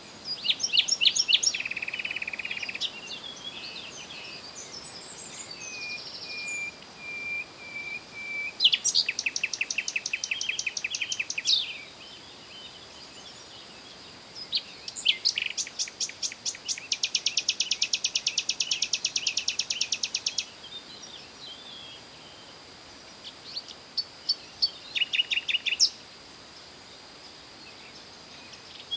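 Songbirds singing: phrases of high-pitched chirps and fast trills, separated by short pauses. The longest is an even, rapid trill from about seventeen to twenty seconds in.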